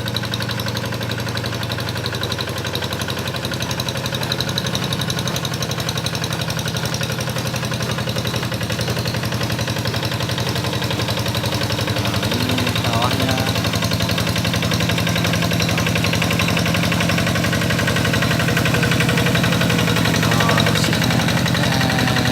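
Rice-paddy plowing tractor's engine running steadily with a rapid pulsing beat, getting slightly louder in the second half as it works the field.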